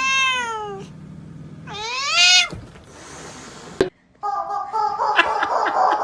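A cat meowing twice, each a long call under a second that rises and then falls in pitch. After a short break about four seconds in, a dense, noisy sound with a few steady tones and clicks follows.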